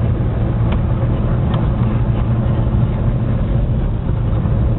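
Steady in-cabin drone of a car's engine and tyres while driving on an icy, snowy road, a low hum with rumble underneath, with two faint clicks in the first couple of seconds.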